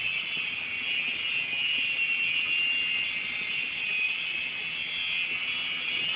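Small radio-controlled helicopter running, its electric motor and rotors giving a steady high-pitched whine, with a faint low hum underneath.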